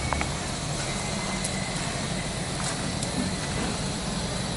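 Toyota FJ40's 2L-T four-cylinder turbo diesel engine running with a steady low rumble.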